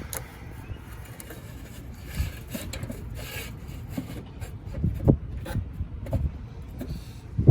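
Irregular rubbing and scraping handling noise with scattered light clicks, as the replacement control board is handled and worked toward its mounting brackets in the rooftop unit's control panel.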